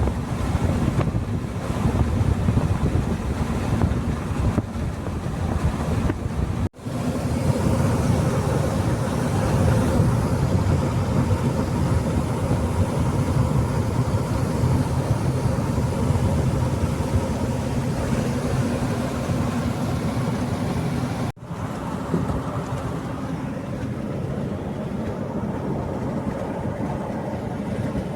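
A vehicle driving on the road: steady engine hum, tyre noise and wind noise, cut off abruptly twice where the clips join.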